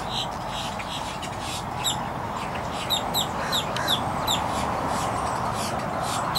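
A bird chirping over and over in short, high notes that fall in pitch, with a quicker run of them about halfway through, over a steady background hiss.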